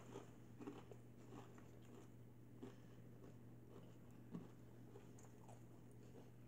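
Faint chewing of a sub sandwich: a few soft, scattered mouth clicks over near silence, with a low steady hum underneath.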